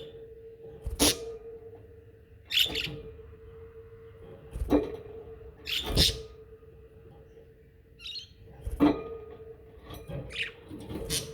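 Pet budgerigars chirping and chattering in short, sharp calls every second or two, with a steady low hum underneath.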